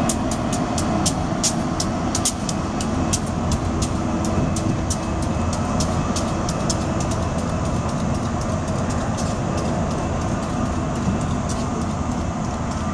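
SEPTA electric commuter train rolling past, a steady rumble with rapid sharp clicks from the wheels over the rail. The clicks come thick in the first half and thin out after about seven seconds.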